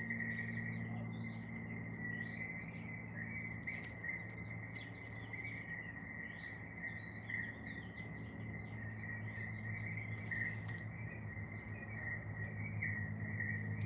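Garden birds chirping and singing in many short calls over a continuous high insect trill, with a steady low hum underneath.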